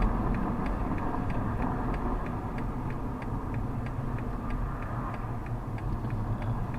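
Regular ticking, about three ticks a second, typical of a car's indicator relay, over the steady low hum of the car's engine and tyres heard from inside the cabin.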